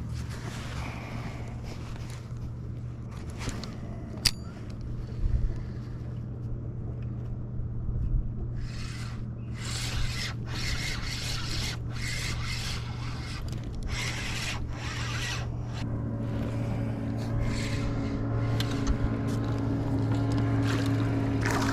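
Steady low hum of a boat motor on the water, growing a little louder and fuller in the last few seconds. From about nine to sixteen seconds in it is joined by a run of short splashing and scraping noises, with a single sharp click a few seconds in.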